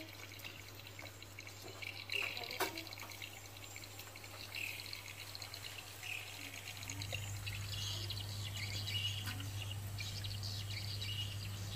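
Birds chirping now and then over a steady low hum, which grows louder about seven seconds in, with a few sharp clicks.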